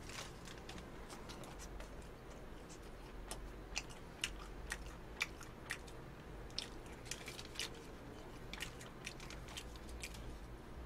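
A person chewing a burger close to the microphone: faint, irregular mouth clicks and smacks.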